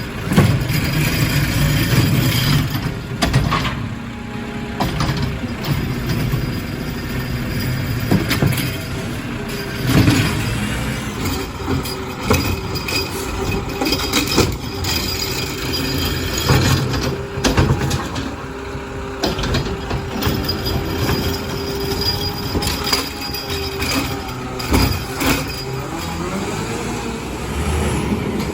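Garbage truck running, its diesel engine steady under a held tone, with repeated knocks and bangs scattered through.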